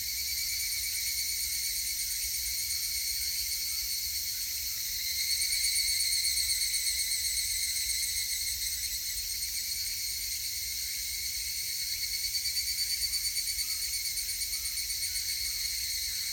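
Higurashi cicadas (Tanna japonensis) calling in a steady high-pitched chorus. Twice, about five and twelve seconds in, a louder pulsing call swells up and fades back.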